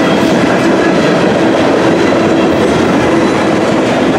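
Freight train's covered hopper cars rolling past close by: a loud, steady rumble and clatter of steel wheels on the rails, with a few faint steady ringing tones above it.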